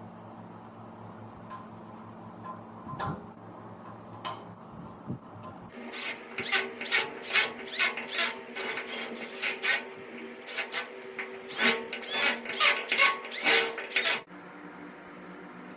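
Irregular clicking and scraping of small hand tools and metal parts being worked, dense from about six seconds in until shortly before the end, over a steady low hum.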